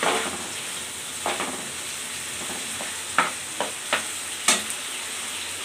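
Drumstick pieces frying in mustard-and-poppy-seed paste in a non-stick wok: a steady sizzle, while a spatula stirs and scrapes the pan with several sharp scrapes and knocks, the loudest about four and a half seconds in.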